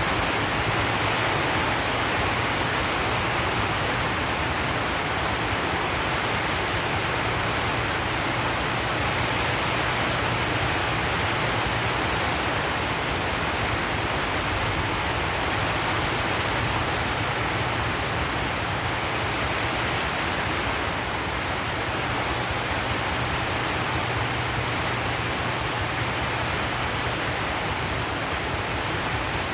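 Rain falling steadily on a zinc roof, a dense, even hiss with no single drops standing out.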